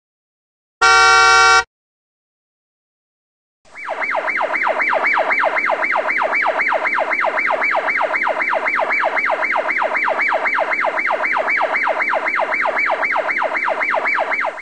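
A short buzzer tone sounds for under a second about a second in. After a pause, a siren sound effect starts and warbles rapidly up and down, about three to four sweeps a second, in a police-style yelp.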